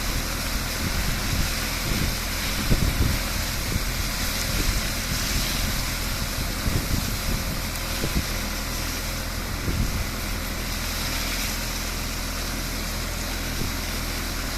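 Tractor engine running steadily, driving a brush sweeper, with wind noise on the microphone and a few short knocks in the first ten seconds.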